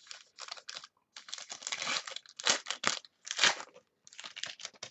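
Trading-card packaging crinkling and rustling as it is handled by hand, in irregular bursts with the loudest crackles around the middle.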